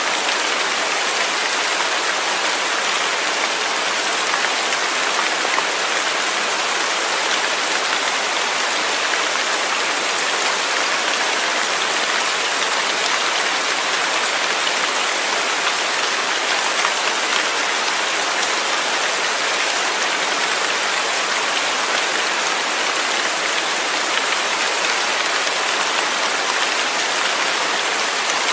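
Steady rain falling, an even hiss of many drops on a surface with no breaks or distinct events.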